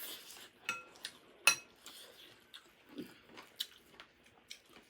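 Utensils clinking against dishes during a meal: a few sharp clinks, each with a short metallic ring, the loudest about a second and a half in.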